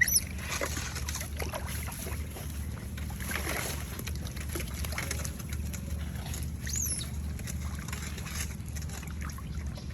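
Otter giving short, high chirps, one right at the start and another falling one about seven seconds in, over water splashing and a steady low hum.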